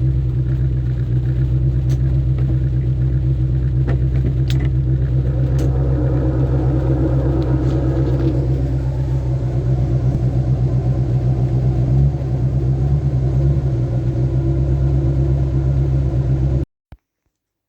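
Austin Allegro 1.5's four-cylinder petrol engine running steadily soon after a cold start on full choke, with a few light clicks; the sound cuts off suddenly near the end.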